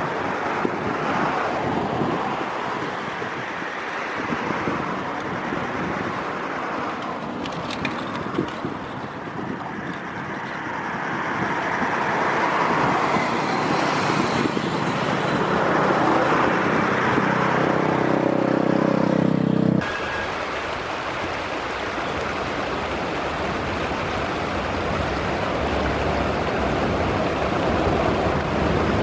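Outdoor rushing noise of wind on the microphone over a background of passing road traffic, swelling and fading over several seconds. A steady droning hum builds about two-thirds of the way through and cuts off abruptly.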